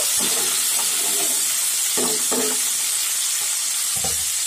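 Potato, carrot, onion and tomato pieces frying in hot mustard oil in a kadai: a steady sizzle, with the spatula stirring them now and then.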